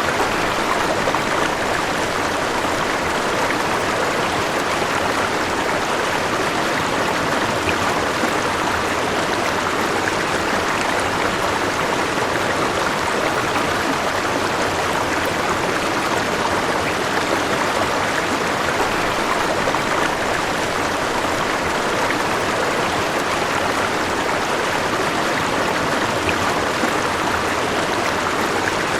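River water flowing steadily over rocks, a continuous even rush with no breaks.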